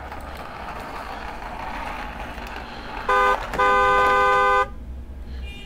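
Toy car's electronic horn beeping: a short beep about three seconds in, then a longer beep lasting about a second, over a steady whirring noise from the running toy.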